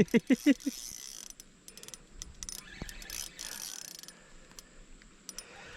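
Small spinning fishing reel being wound in with a run of light mechanical clicks and ticks as a hooked giant river prawn is reeled up.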